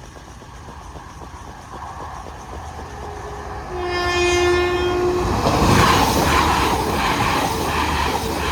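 A Class 172 diesel multiple unit approaching over a level crossing sounds its two-tone horn, a higher note then a longer lower one, then passes close by with loud rhythmic wheel clatter over the rail joints.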